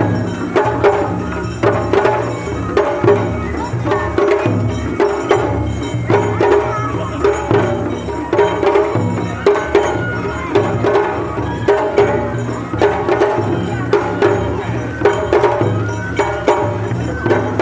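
Japanese festival music (matsuri-bayashi) played in procession: a rapid, steady run of sharp percussion strikes over drum beats and a sustained melody.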